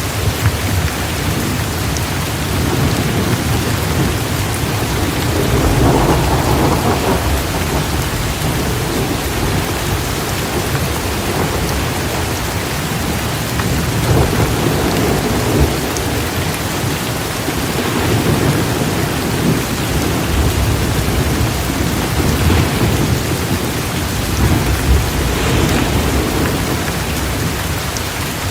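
Heavy, steady downpour of rain, with low rolls of thunder swelling and fading several times underneath it.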